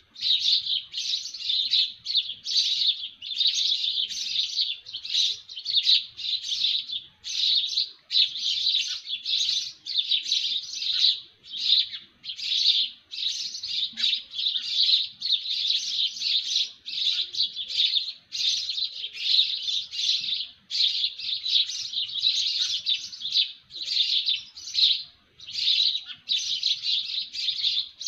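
Birds chirping in a dense, nearly unbroken chatter of high notes, in short runs with brief breaks between them.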